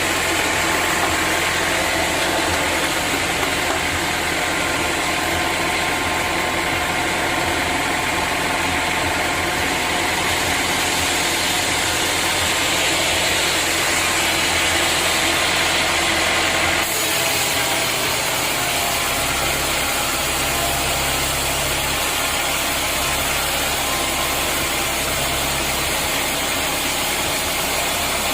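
Sawmill machinery running steadily, a continuous engine-like drone; the sound changes abruptly about seventeen seconds in.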